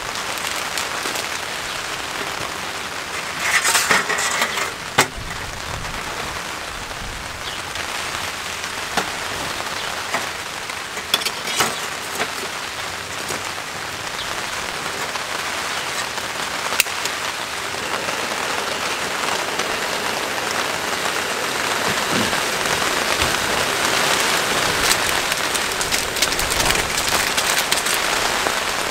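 Rain falling on the tarp overhead, a steady hiss that grows louder through the second half, with a few short sharp knocks now and then.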